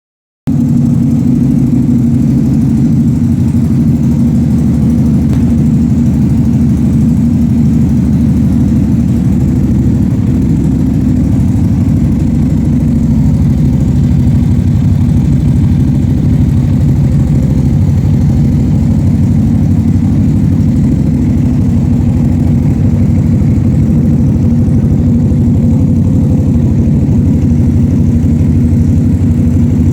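V-twin motorcycle engine idling steadily through an SC-Project Catalunya aftermarket exhaust, a loud, deep, even burble.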